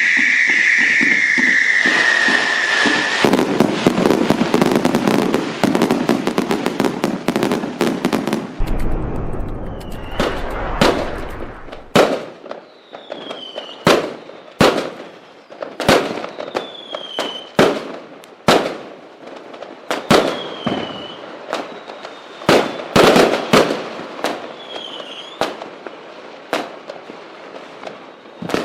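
Fireworks going off: a whistle falling slightly in pitch, then several seconds of dense crackling, then a string of sharp bangs about one a second, several of them preceded by short falling whistles.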